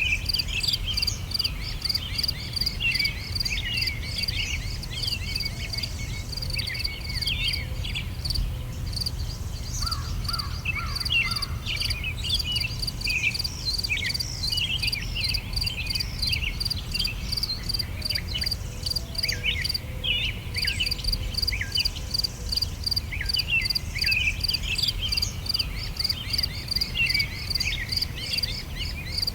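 Songbirds chirping and calling in many short notes over a steady, evenly pulsing insect trill, with a low rumble underneath.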